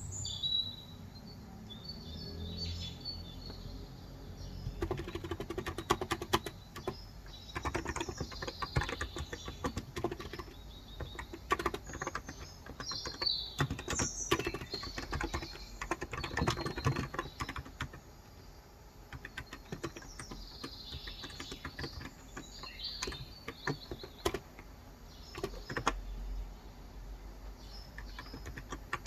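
Typing in quick runs of keystrokes on a Cox Endeavor electro-capacitive (Topre-style) keyboard with light 35 g keys, starting about five seconds in and pausing briefly a little past halfway. Birds chirp throughout, and their chirps are heard alone at the start.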